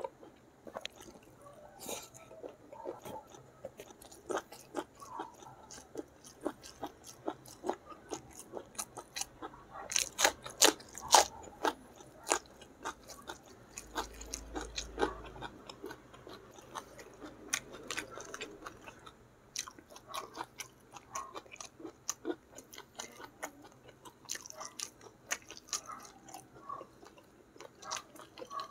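Close-miked chewing of a mouthful of rice with sambal and petai (stink beans): wet smacking and crunching with many sharp mouth clicks, loudest about ten to twelve seconds in.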